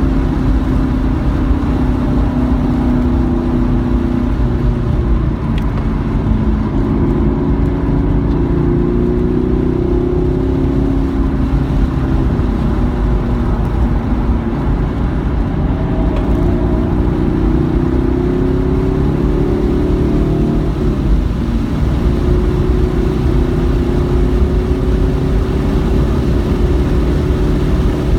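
Car engine on a racetrack, pulling through long stretches of acceleration: its note climbs slowly, drops back as the driver lifts or shifts about 12 s and 21 s in, then climbs again, over a steady rumble of road and tyre noise.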